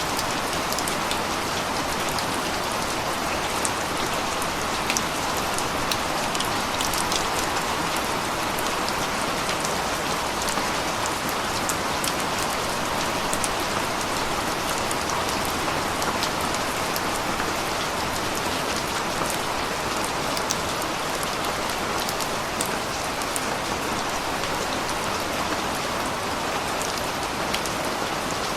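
Steady rain falling, an even hiss with many close drops ticking sharply and irregularly on a surface.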